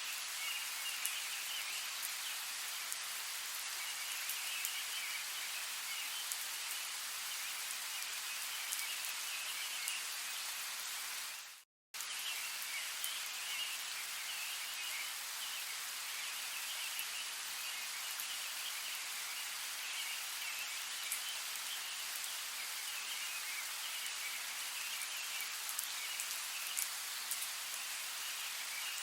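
Steady rain with scattered sharper drops, over a faint high chirping chorus. A little under halfway through, the sound fades out, drops to silence for about half a second, then comes back abruptly.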